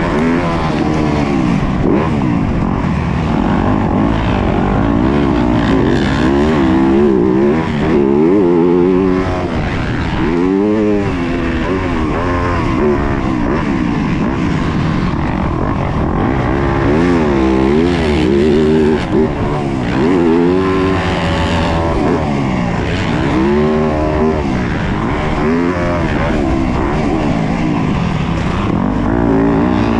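Yamaha YZ250F four-stroke single-cylinder motocross engine revving hard and falling off again and again, the pitch rising and dropping every second or two as the throttle is worked and the bike shifts through its gears on the race track.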